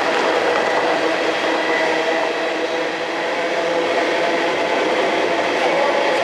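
Freight train rolling past, a steady loud rail noise with a few held tones over it.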